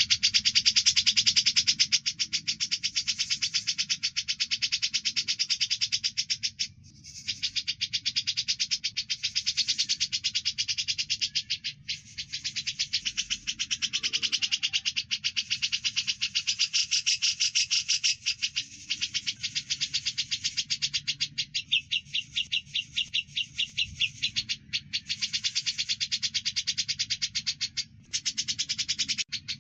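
Birdsong tutor recording mixing grey-cheeked bulbul (cucak jenggot) and Eurasian tree sparrow (burung gereja) calls: a fast, continuous stream of high chirps with a few brief pauses.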